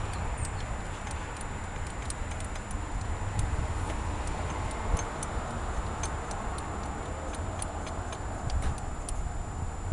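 Scattered light metallic clicks and ticks from hand tools and engine parts being handled, over a steady low rumble.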